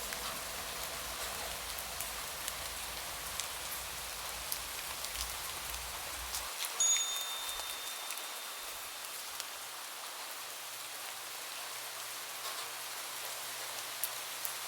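Steady rain falling on a surface, a constant hiss with scattered individual drop ticks. About halfway through, a single short, high ping rings out briefly.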